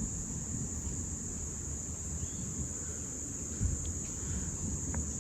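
Steady high-pitched chorus of insects trilling without a break, over a faint low rumble.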